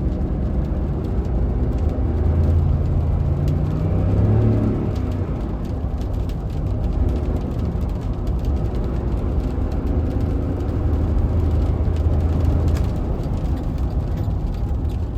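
Vehicle under way, engine running and pulling, its pitch rising about two to four seconds in, then holding steady without a further upshift. The automatic transmission is only getting two gears, which the owner takes for a bad transmission.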